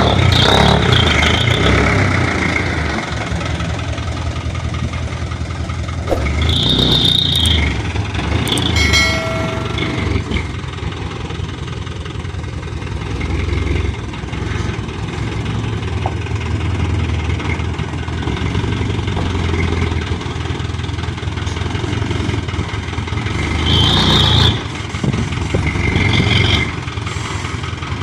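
Hino Dutro dump truck's diesel engine running steadily at a low rumble, with a few brief high squeals and a short pitched tone about nine seconds in.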